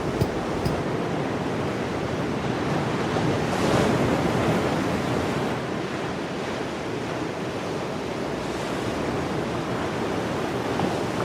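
Sea waves and strong wind at a beach: an even rushing noise that swells briefly about four seconds in.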